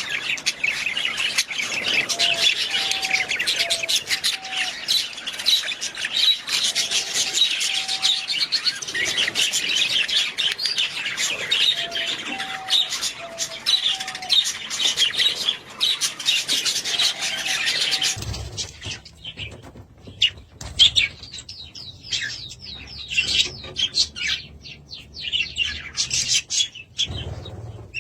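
A flock of budgerigars chattering, dense chirps and squawks with groups of short, lower whistled notes recurring every few seconds. About two-thirds of the way through the sound changes abruptly to sparser chirps over a low rumble.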